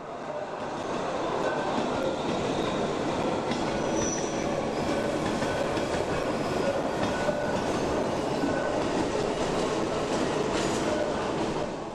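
Berner Oberland Railway narrow-gauge train's coaches rolling past: a steady rumble of wheels on rail with clicks over the rail joints and brief high wheel squeals. The sound fades in at the start and drops away near the end.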